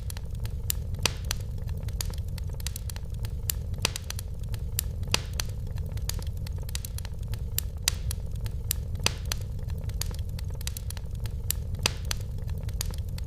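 Wood fire burning in a fireplace: frequent sharp crackles and pops at irregular intervals over a steady low rumble.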